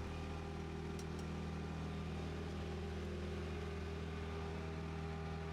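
Light single-engine Cessna's piston engine and propeller idling steadily just after start-up, a level low drone that does not change.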